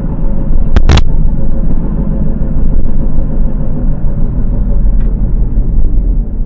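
2002 Honda CR-V driving, heard from inside the cab: a loud, steady road rumble with a faint hum from the front wheels, which the driver takes for a noisy passenger-side wheel bearing. Two sharp clicks about a second in.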